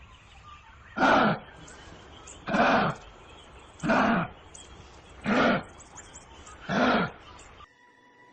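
An animal calling five times at an even pace, one call about every one and a half seconds, each call short with a pitch that rises and falls.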